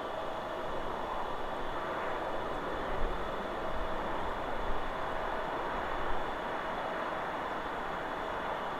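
Wind blowing through forest trees: a steady rush, with a few low gusts buffeting the microphone about three, four and a half and six seconds in.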